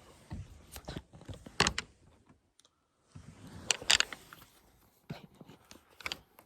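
Scattered handling noises: rustling and scraping with a few sharp clicks, the loudest about one and a half, four and six seconds in.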